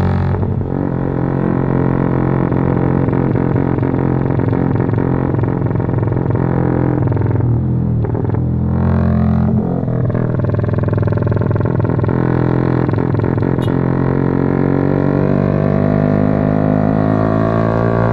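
Honda CB150R engine through a Norifumi aftermarket racing exhaust, ridden on the road: a loud, deep exhaust note whose revs drop twice about eight and ten seconds in, then climb steadily through the last several seconds as the bike accelerates.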